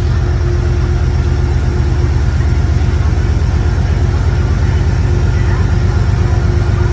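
An engine idling with a steady, low pulsing rumble that rises slightly about two seconds in.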